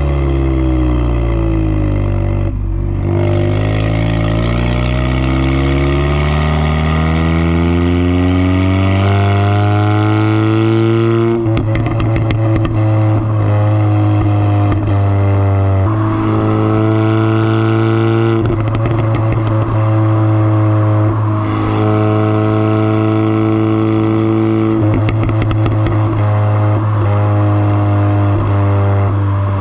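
Exhaust of an Audi S3's turbocharged 2.0-litre four-cylinder, fitted with a CTS downpipe and resonator delete, driving: the pitch falls for the first few seconds as the car slows, then climbs steadily for about eight seconds under acceleration. It drops sharply at a gear change about eleven seconds in, then runs at a steadier pitch with a few small step changes.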